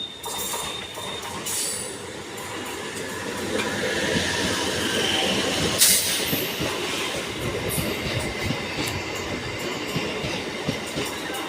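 A railway train moving along the track: steady wheel-on-rail rumble with some wheel squeal, growing louder after a couple of seconds, and one sharp metallic clank about six seconds in.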